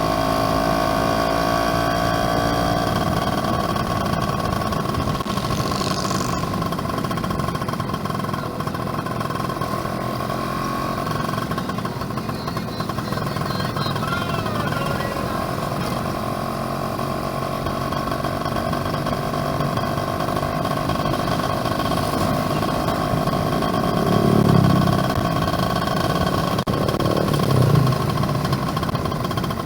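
Yamaha F1ZR two-stroke underbone motorcycle engine running steadily while riding, heard from on board, with road and wind rumble underneath. Near the end there are two brief louder low swells.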